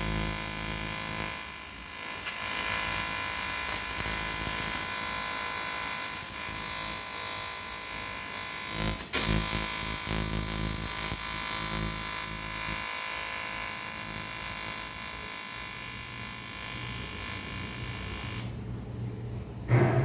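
AC TIG welding arc on aluminium buzzing steadily: a flat electrical buzz with a hiss. There is a brief break about nine seconds in. The arc stops shortly before the end, leaving a low hum.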